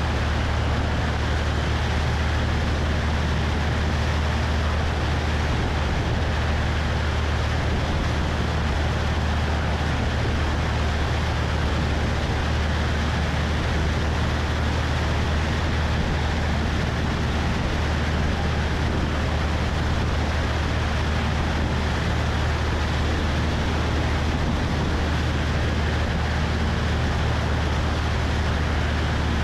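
Cessna 172's piston engine and propeller running steadily in flight, a low even hum, with wind rushing over the wing-mounted microphone.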